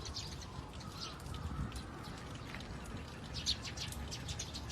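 Small birds chirping in quick, short calls, with a thicker cluster of chirps about three and a half seconds in.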